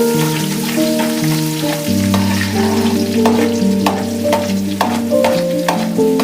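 Fish frying in hot oil with a steady sizzle, a utensil stirring and clicking against the pan now and then, over background instrumental music with a slow melody of held notes.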